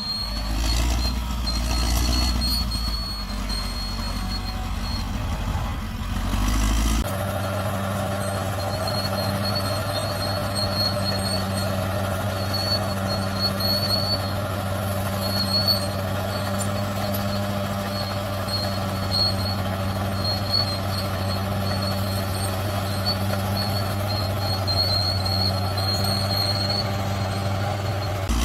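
Bulldozer's diesel engine running steadily under work, with a thin high whine above it. The sound changes abruptly about seven seconds in, from a deep rumble to a steadier, more even engine note.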